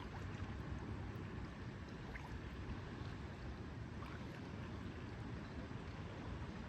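Lakeside outdoor ambience: a steady low rumble of wind and water lapping at the shore.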